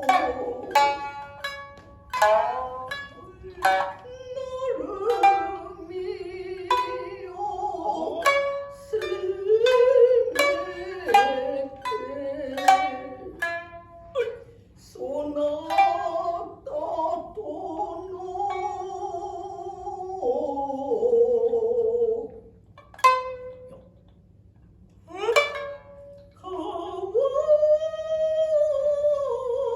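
Shinnai-bushi: shamisen and a higher-tuned second shamisen (uwajōshi) plucked in sharp, quick strokes, then a jōruri chanter's voice in long, wavering held lines over sparse plucks. Near the end the voice drops out briefly, two single plucks sound, and the chanting resumes.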